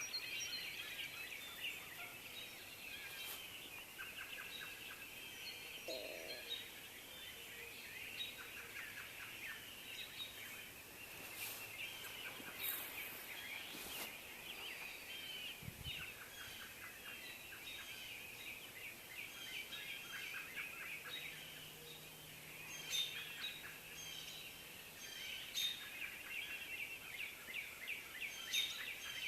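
A chorus of many small birds chirping and calling without pause, over a steady background hiss.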